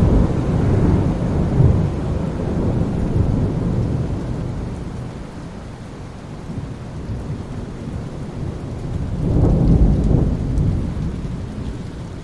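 Steady rain falling on ocean water, with low rolling rumbles of thunder: one dying away over the first few seconds and another swelling about nine seconds in.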